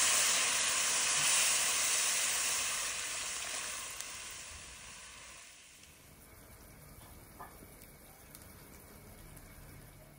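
Food frying in hot oil in a wok, a loud sizzle that fades away over about six seconds, leaving only faint background.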